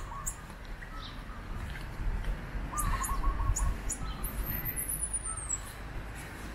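Birds calling: a rolling trill about three seconds in, scattered short high chirps, and a high whistle falling in pitch near the end, over a steady low rumble.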